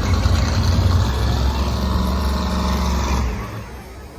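Monster truck engine running with a deep, steady rumble that dies away about three and a half seconds in.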